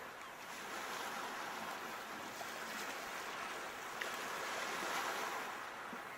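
Sea waves washing onto the shore in a steady rush, swelling twice as waves break.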